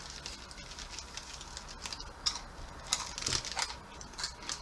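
Mouth-close chewing of crunchy-coated chili-lime peanuts (Takis Hot Nuts): faint, irregular crisp crunches, thickest in the middle.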